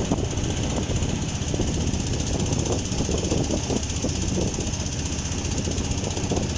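An engine running steadily, with a dense low rumble.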